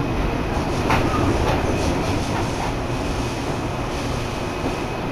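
Seibu Ikebukuro Line commuter train running, heard from inside the carriage: a steady rumble of wheels on the track with a thin constant whine, and a short run of sharp clicks about a second in.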